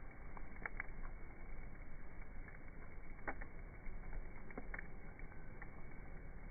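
Wood campfire crackling: irregular sharp pops and snaps over a steady rushing noise.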